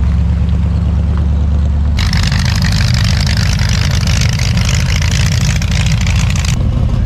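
A motor vehicle engine running with a low, steady rumble. A loud rushing hiss starts abruptly about two seconds in and cuts off near the end.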